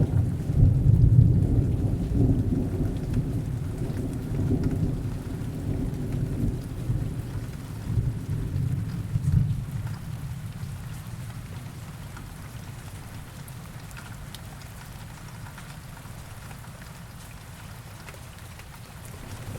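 Heavy rain falling steadily under rolling thunder. The low rumble swells through the first half, dies away about halfway through, and leaves mostly the rain.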